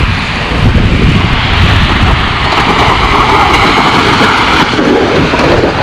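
Plow and salt-spreader truck running as it clears a parking lot: a steady engine rumble under a rushing noise that swells about two seconds in and eases near the end.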